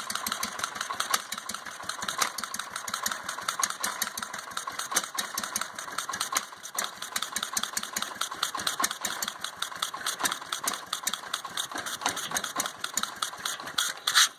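Ford LGT145 garden tractor engine running steadily, a rapid even train of firing pulses; it cuts off abruptly at the end.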